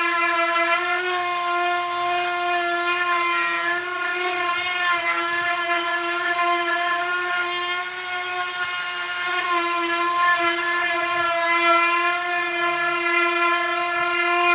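Electric sander running steadily against wood, its motor whine holding one pitch that wavers slightly as the pressure on it changes.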